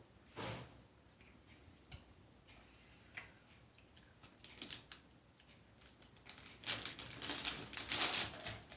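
Popcorn being crunched while eaten: scattered crisp crunches, then a dense run of crackling crunches near the end.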